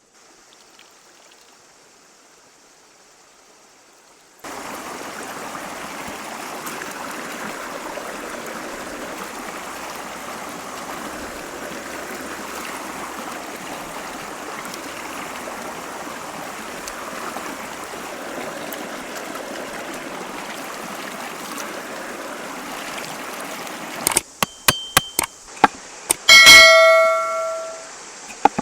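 A steady rushing noise starts abruptly a few seconds in and holds even. Near the end come several sharp knocks, then one loud metallic ring from a struck metal object that dies away over about a second.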